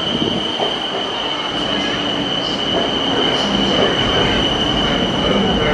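Bangkok BTS Skytrain train moving past close along an elevated station platform. A steady high-pitched squeal sounds over the rumble of the cars.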